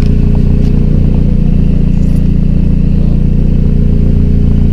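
Honda Civic EF's D15 1.5-litre four-cylinder engine idling steadily, its exhaust through aftermarket Tortuga headers heard up close at the rear of the car.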